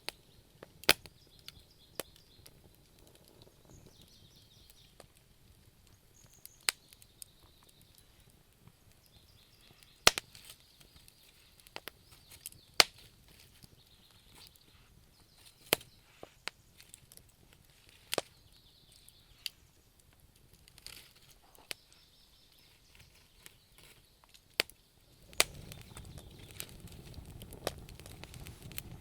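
Wood fire crackling in a fireplace: irregular sharp pops and snaps, some loud, over a quiet background, with a low steady rush of flame coming up near the end.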